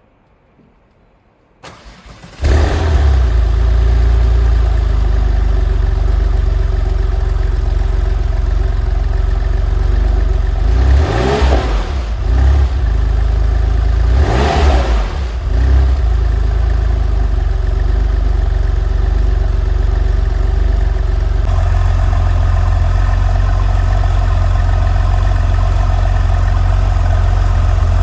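Porsche 993's air-cooled flat-six being started: the starter cranks briefly and the engine catches about two seconds in, then idles. It is blipped twice about halfway through, then settles back to a steady idle.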